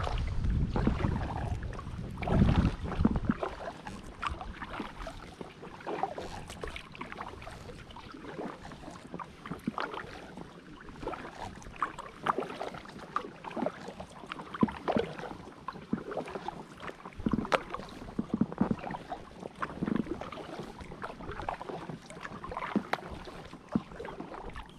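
Paddling an inflatable drop-stitch kayak: the paddle blades dip in, splash and drip in an irregular run of small splashes. A low rumble sits under the first few seconds.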